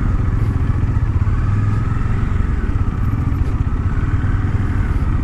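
Bajaj Dominar 400 motorcycle's single-cylinder engine running steadily while being ridden over a rough off-road track.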